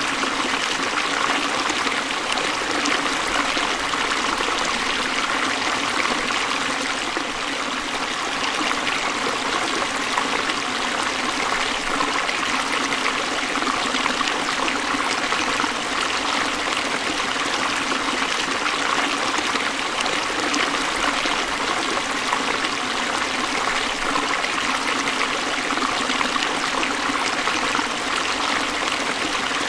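Forest stream flowing and trickling in a steady, even rush of water.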